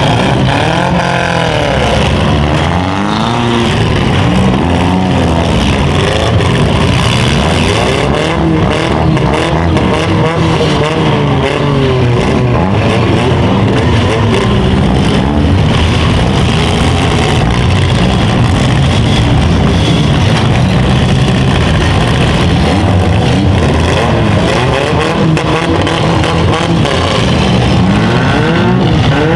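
Several small-car engines revving up and down at once in a demolition derby heat, their pitches rising and falling over one another.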